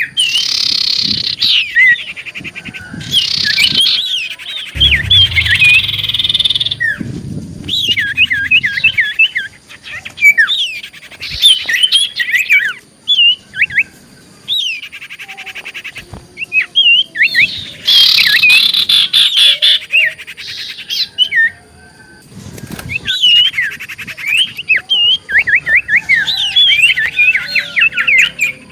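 Common iora (cipoh) in full song: rapid phrases of chirped and whistled notes sweeping up and down, broken by short pauses. A low rumble comes in about five seconds in and lasts a couple of seconds.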